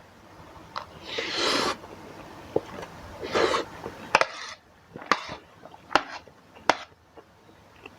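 Eating sounds from a bowl of spicy instant noodles: two short noisy slurps, then a few sharp clicks and taps of a fork and spoon on the bowl.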